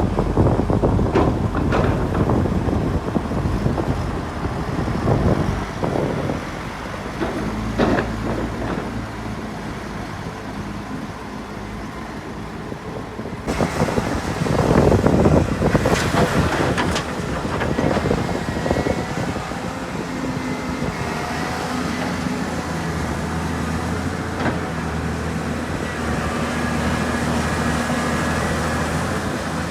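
Heavy diesel construction machinery working: a rumbling engine with scattered knocks and clatter, then a steady engine drone with a constant pitch in the second half.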